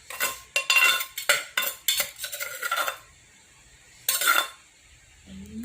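Spoon and pestle clinking and scraping against a mortar as som tam is tossed and mixed: a quick run of clinks over the first three seconds, then one more scrape about four seconds in.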